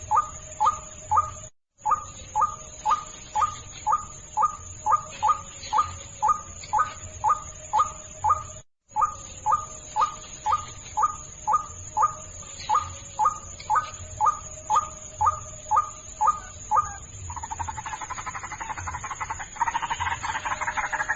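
White-breasted waterhen (ruak-ruak) lure call: a steady, monotonous series of short squawking notes, about two and a half a second, cut to silence twice for a moment. About three-quarters of the way through it changes to a fast, dense croaking chatter.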